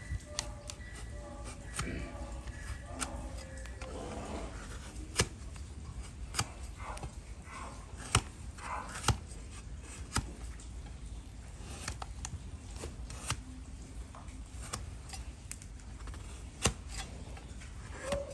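A donkey's hoof being trimmed, with irregular sharp cutting snips and clicks as the hoof horn is cut, some of them louder than the rest.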